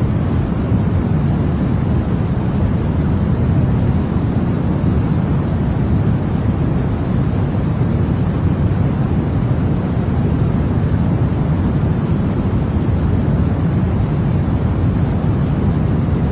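Continuous sleep noise of the kind sold as white noise for babies: a steady, unchanging rushing hiss, weighted to the low end so it sounds deep and rumbly rather than sharp.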